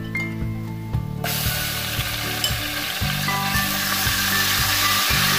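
Ginger-garlic paste going into hot oil with fried onion and whole spices: the sizzling starts suddenly about a second in and keeps going as the paste is stirred in with a spoon. Background music with a steady beat runs underneath.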